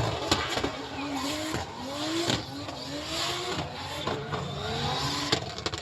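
Vehicle engines revving over and over, their pitch climbing in short rises, with a few sharp cracks in between.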